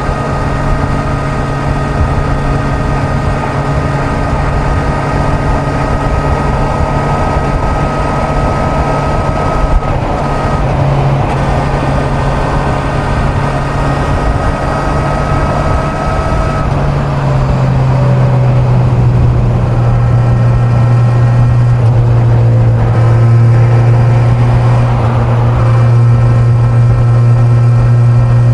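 Kawasaki Z900's inline-four engine running steadily at highway speed, over a rush of wind. About two-thirds of the way through, its pitch eases down a little and the engine gets louder, then holds steady.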